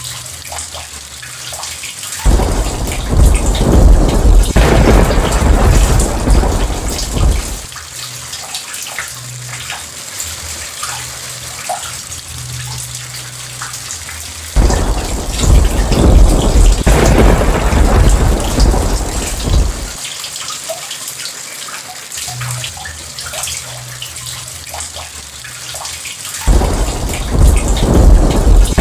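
Steady rain with three rolls of thunder. Each roll starts suddenly, rumbles for about five seconds and then drops away, and they come roughly every twelve seconds.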